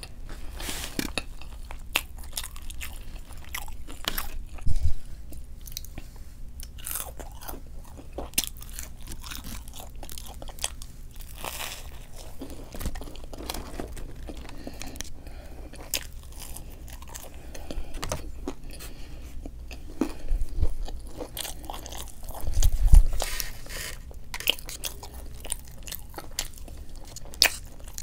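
Close-miked biting and chewing of fried fast food from a chicken-strip meal: irregular crunchy bites and wet chewing, with a couple of low thumps near the start and about three-quarters of the way through.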